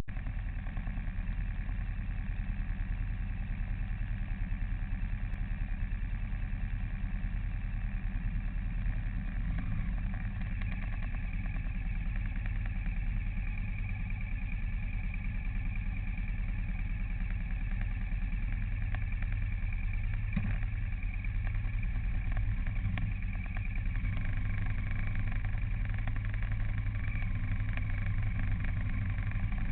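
A vehicle's engine running steadily at cruising speed, a continuous low hum with road noise, heard while driving.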